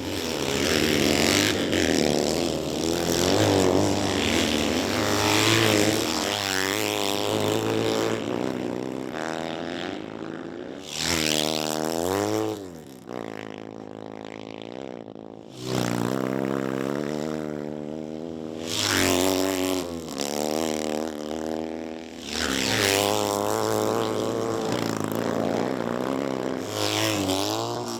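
Vintage racing motorcycles on track, engines revving hard and easing off as they go past one after another, the pitch climbing and dropping every few seconds through gear changes.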